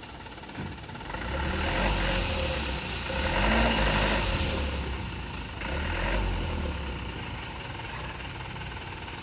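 Sand-laden dump truck's diesel engine picking up revs and running under load, then easing back, with a few short high-pitched squeaks over it.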